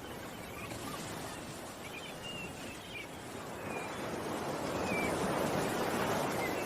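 Ocean surf: a wave swells in, loudest about five seconds in, then starts to ebb. A handful of short, high bird chirps sound over it.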